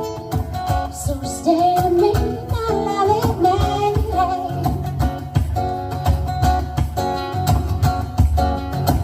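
Acoustic guitar strummed with a singing voice over it, the voice most prominent in the first few seconds.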